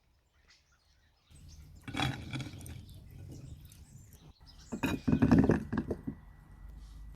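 Kitchenware clinking and knocking: a few sharp clatters about two seconds in, and a louder cluster of knocks about five seconds in.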